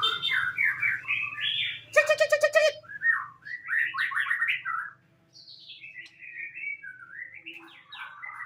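White-rumped shama (murai batu) singing a run of varied whistled phrases that slide up and down in pitch, with a fast harsh rattle about two seconds in.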